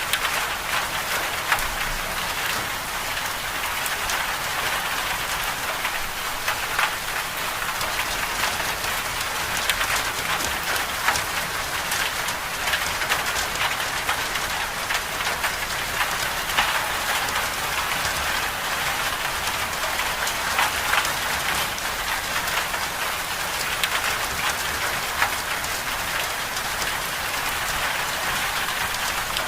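Storm rain falling steadily on a surface: an even hiss sprinkled with many small drop ticks.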